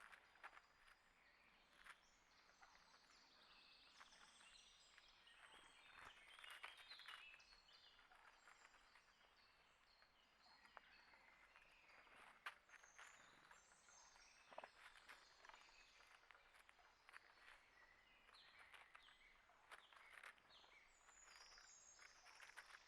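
Faint outdoor ambience of small birds chirping and calling on and off, with scattered light clicks and taps.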